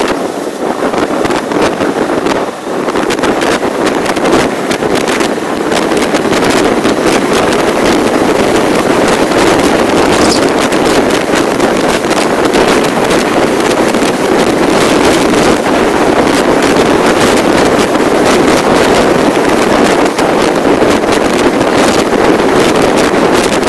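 Loud, steady wind rush buffeting the microphone while riding along, mixed with the vehicle's running noise.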